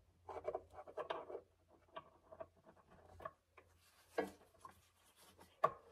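Hands working parts into a car headlight housing: light rubbing and rustling with scattered clicks, the sharpest click near the end.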